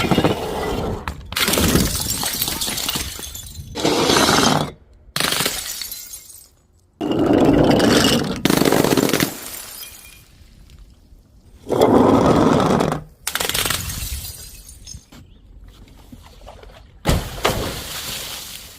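Glass bottles smashing one after another: a series of sudden loud crashes, each followed by about a second of clattering, tinkling shards.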